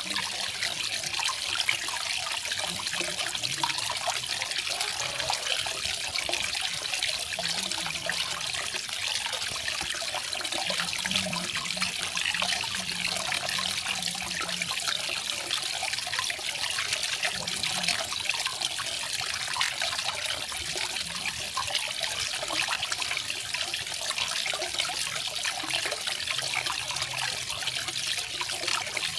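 Garden waterfall: water splashing and trickling steadily, with no pauses or changes.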